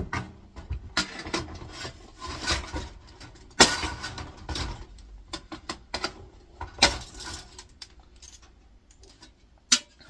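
Irregular clattering, knocking and scraping of the air fryer's thin sheet-steel body and a riveted-on aluminium piece being handled and worked apart. The sharpest knocks come about a third of the way in, past halfway and near the end.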